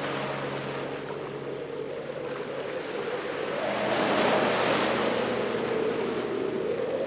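Ocean waves washing on a beach, with a surge that swells to its loudest about four seconds in and keeps rushing. A faint low steady hum fades out over the first few seconds.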